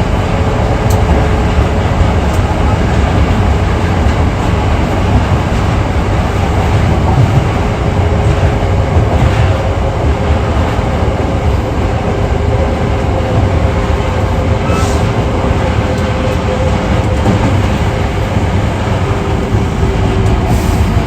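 Interior running sound of a Hankyu 8300-series electric train (car 8812, Toyo GTO inverter) travelling through the subway: a steady loud rumble of wheels on rail with a faint held tone underneath.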